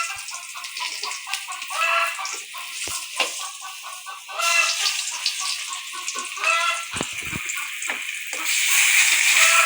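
Chickens clucking, with repeated short calls and a louder drawn-out call every couple of seconds. A hissing, rushing noise builds near the end.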